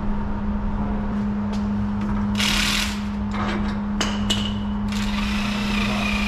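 A power tool running in short bursts, two of them within a few seconds, the second carrying a high whine for about a second, over a steady low hum.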